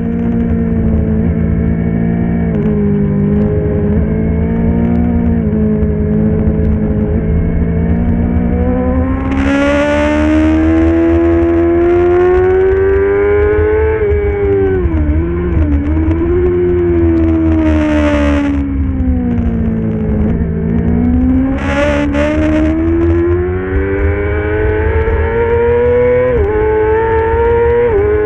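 Middleweight superbike engine running at racing speed, its pitch climbing steadily for long stretches and then dropping quickly about halfway and again near the end, with a few short high hissing flares over the top.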